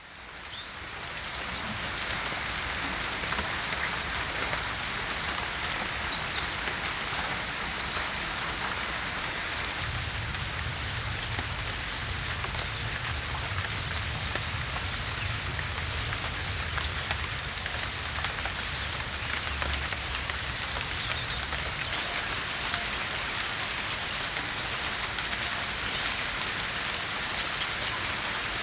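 Steady rain falling, fading in over the first couple of seconds, with a low rumble underneath from about ten seconds in to about twenty.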